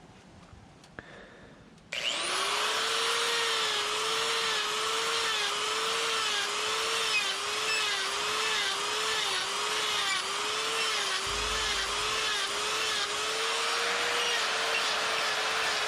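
Die grinder with a flame burr starting up about two seconds in and running at high speed with a steady whine while it cuts fur grooves into wood. Its pitch dips and recovers over and over as the burr bites into the wood.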